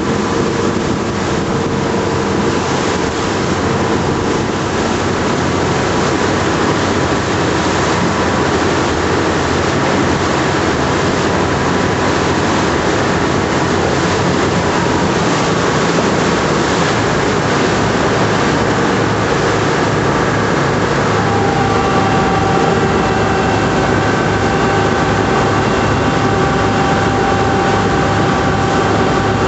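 A 12 m patrol boat under way: a steady engine drone over rushing water and wind noise. About two-thirds of the way through, the engine's tone shifts to a new, higher set of notes.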